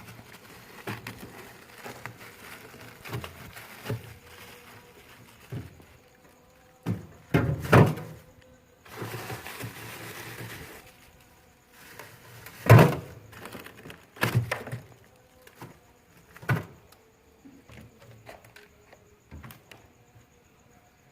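Irregular knocks and thuds from work on a frost-packed refrigerator, with a short scraping hiss about nine seconds in; the loudest knock comes about halfway through.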